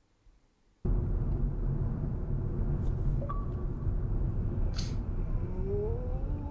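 Road and engine rumble of a moving car as picked up by a dashcam, cutting in suddenly about a second in and staying steady, with a rising tone near the end.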